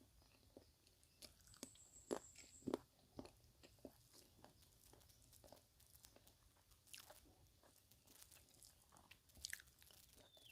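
Faint crunching and chewing of a person eating, with irregular small crunches, the loudest a little after two seconds in.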